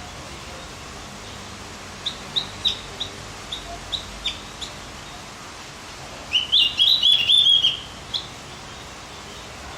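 Javan grey-throated white-eye (opior jawa) song: a string of about eight short, high chip notes, then a loud, rapid chattering phrase lasting under two seconds and one last note, over a steady hiss.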